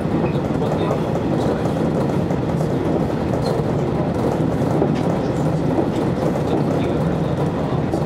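Electric train running steadily along the track, heard from just behind the driver's front window: a constant rumble of wheels on rail with a low hum and a few faint clicks over the rail joints.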